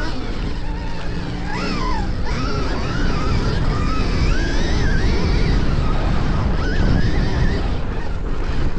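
Stark Varg electric motocross bike riding off-road, its motor whining and rising and falling in pitch with the throttle over a steady rumble of wind and tyre noise.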